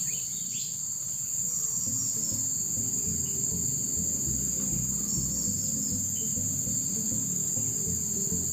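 Steady, high-pitched chorus of insects shrilling without a break, with a lower, shifting background underneath.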